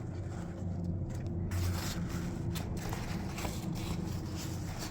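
A steady low hum like a running motor, with scattered short scrapes and rustles of fabric and buckles being handled.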